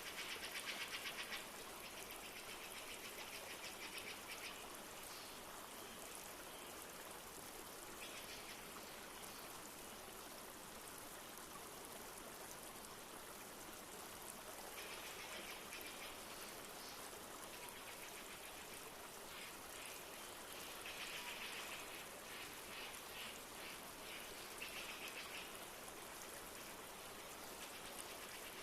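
Steady rush of a flowing river with light rain, overlaid by rapid trilling bird calls that come in bursts of a second or two, repeating several times.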